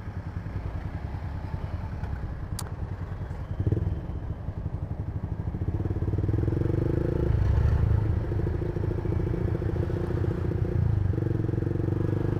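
Yamaha MX King 150's single-cylinder engine breathing through an aftermarket racing exhaust while the bike is ridden. The engine gets louder about four seconds in and again about six seconds in, with its pitch stepping down twice, near seven and eleven seconds in.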